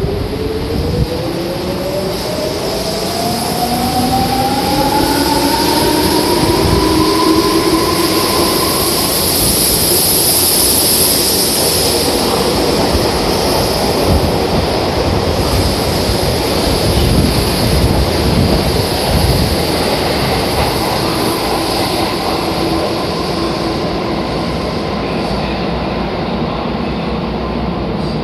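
Tobu 9000 series electric train pulling out of an underground station. A whine rises steadily in pitch over the first nine seconds or so as the train accelerates. Rumble and wheel-on-rail noise run on as the cars move past.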